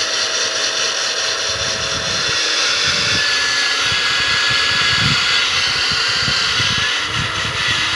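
Water-cooled diamond core drill running steadily as it bores through a thick house wall: an even, loud grinding noise with a faint high whine.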